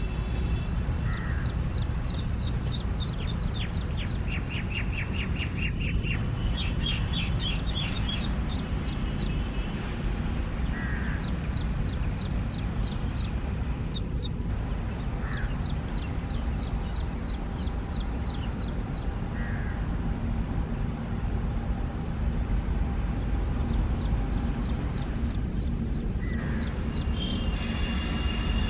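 Birds calling: several runs of rapid, high trilling chatter and a few short caws spaced several seconds apart, over a steady low rumble.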